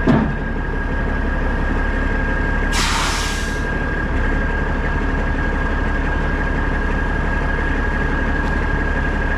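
Semi truck's diesel engine running steadily, with a steady high whine over it. There is a short thump at the start and a brief hiss of air about three seconds in.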